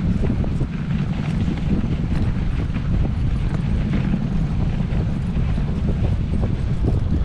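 Sled dog team running and pulling the sled: a steady rumble of the sled moving over the trail, with a quick patter of paws and wind on the microphone.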